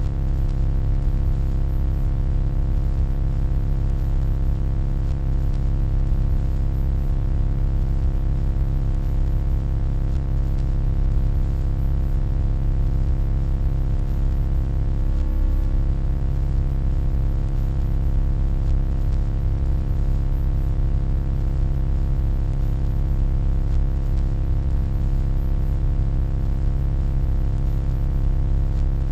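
Steady, deep electronic hum made of many held tones layered together, heaviest in the low bass, without a break.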